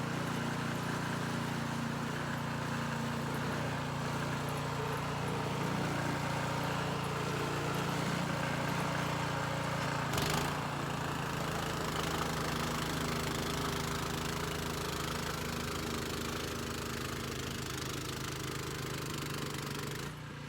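Gas snowblower engine running steadily, with one short knock about halfway through.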